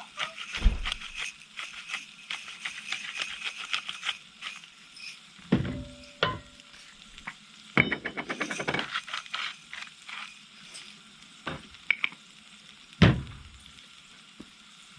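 Food frying in butter in a pan with a crackly sizzle, while a utensil stirs it and knocks against the pan several times.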